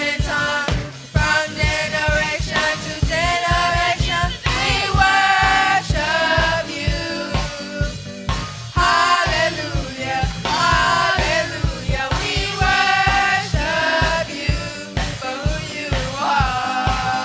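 Gospel worship song: singing voices over a live band, with a steady drum and bass beat.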